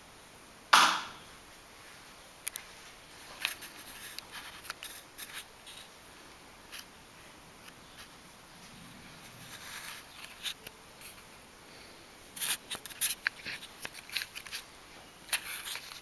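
A sharp click about a second in, then scattered light clicks and knocks, like small objects being handled on a hard surface.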